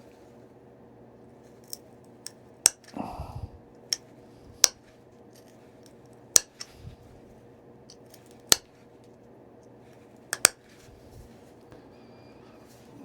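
Sharp clicks of flakes popping off a stone point under a hand-held pressure flaker as its tip is reshaped, about eight at irregular intervals, with a brief scrape about three seconds in.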